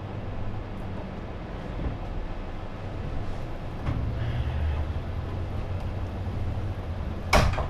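A steady low mechanical rumble with a hum, a little stronger from about four seconds in, and one sharp knock near the end.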